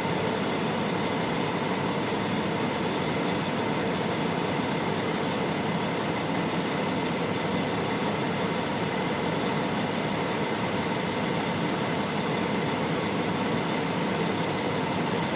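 Steady, even mechanical hum inside a semi truck's cab, from the idling truck and its cab air conditioning.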